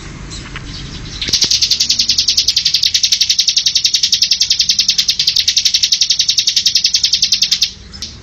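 Bar-winged prinia (ciblek) singing. Softer high chirps give way about a second in to a long, rapid, high trill of roughly ten notes a second, which stops abruptly near the end.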